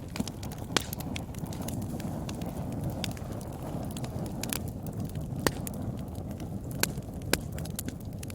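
Wood fire burning in a fireplace: a steady low rush of flames with irregular sharp crackles and pops from the burning wood, a few of them louder than the rest.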